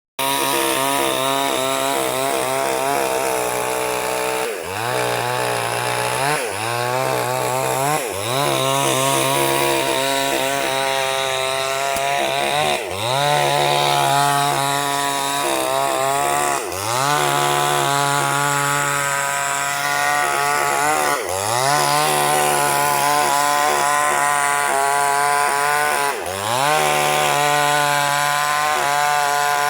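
Two-stroke chainsaw running at high revs, ripping lengthwise through a sengon log. About seven times the engine speed drops sharply for a moment and then climbs straight back up.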